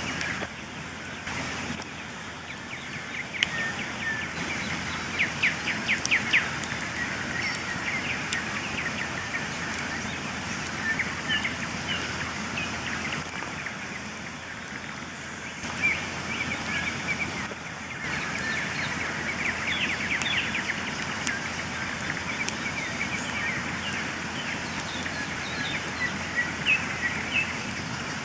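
Campfire crackling over a steady hiss, with scattered sharp pops, while birds sing in short trills and chirps.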